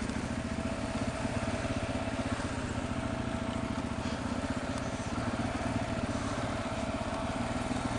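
Motorcycle engine running steadily at low speed, its rapid firing pulses even throughout, with a faint steady whine above it.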